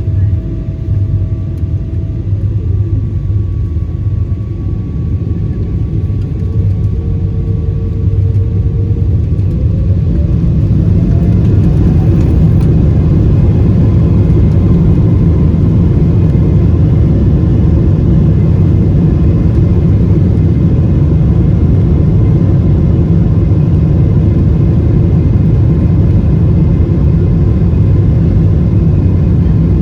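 Airplane engines running up to takeoff power: a whine rises over a few seconds about a third of the way in while the low rumble grows louder, then holds as a loud, steady rumble.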